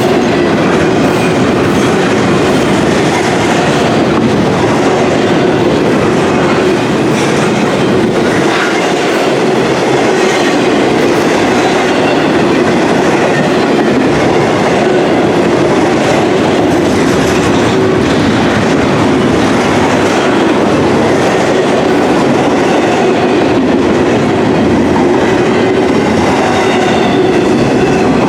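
Freight train's intermodal container cars rolling past: a loud, steady run of steel wheels on rail.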